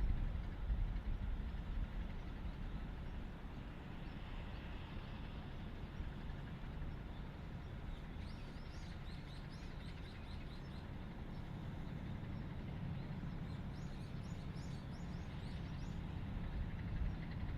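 Steady low outdoor rumble with small birds chirping in two quick, rapid runs, one about halfway through and another a few seconds later.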